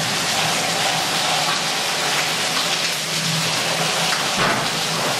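Heavy rain falling steadily on the ground, a dense, even hiss.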